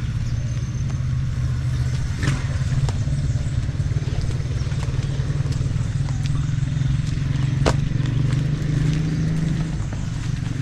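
An engine running at a steady pace, a low drone, with a sharp click about two seconds in and another near eight seconds.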